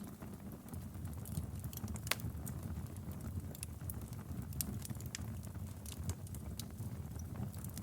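Wood fire burning in a fireplace: a steady low rumble of flames with irregular sharp crackles and pops, the loudest pop about two seconds in.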